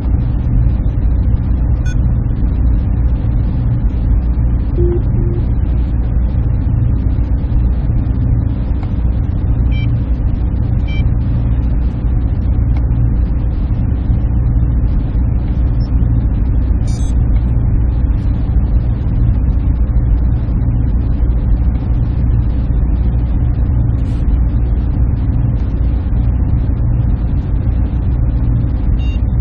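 Server room machinery: a steady low hum and rumble from the equipment, even and unchanging, with a few faint short high ticks now and then.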